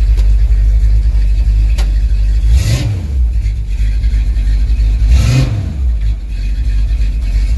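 Pickup truck engine idling through a loud exhaust, blipped twice about two and a half seconds apart; each rev rises and falls back to idle. The exhaust sounds mean.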